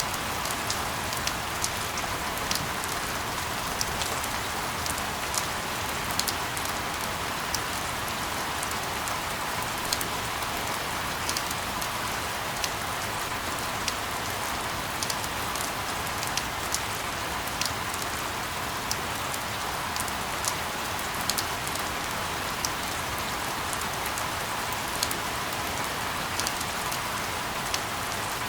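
Steady rain ambience used as sleep white noise: an even hiss with many irregular, sharp drop ticks scattered through it.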